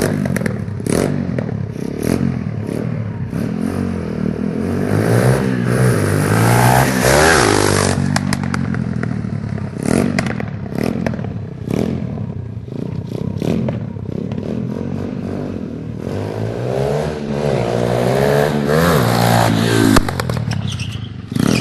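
Motorbike engine revving up and down as it is ridden, rising and falling in pitch twice, with rattling and clattering knocks throughout.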